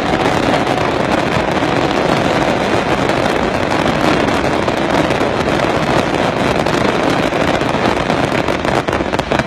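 Fireworks display: a dense, steady barrage of crackling and popping with no break.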